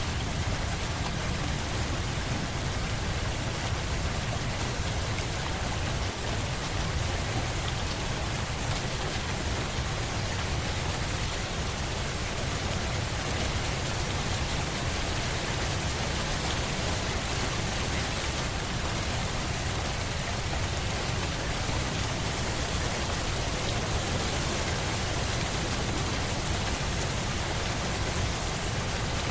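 Steady rain falling on a surface, an even hiss with a low rumble underneath and no let-up.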